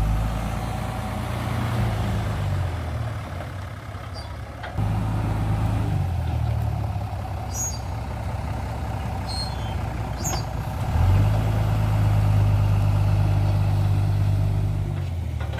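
Hino dump truck's diesel engine running under load as it drives the hydraulic hoist raising the loaded bed. The engine gets louder about five seconds in and again about eleven seconds in, then eases off near the end.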